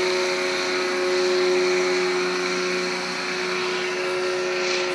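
Flying boat's propeller engines droning steadily at a constant pitch.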